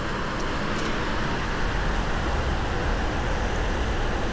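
Steady rush of surf on the beach, with wind rumbling on the microphone.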